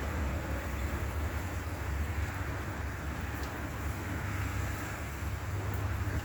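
Steady low rumble of an idling vehicle engine under an even hiss of rain and wet road noise.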